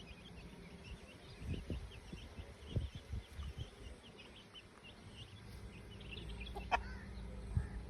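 Chickens calling: many short, high chirps throughout, and one louder call about seven seconds in, over low rumbling and a few dull thuds.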